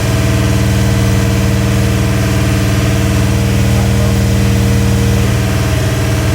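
Freshly rebuilt, carbureted Ford 351 Windsor V8 with a mild Howards cam running steadily on its first start, during break-in. Its speed holds steady throughout.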